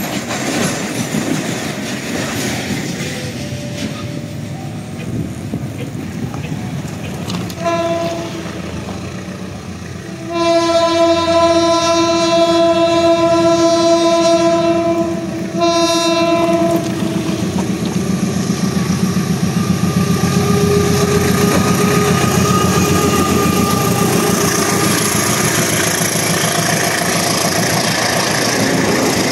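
Train horn sounding a short toot, then a long blast of about five seconds and a shorter one, while a train runs past with steady loud wheel and rail noise and clickety-clack.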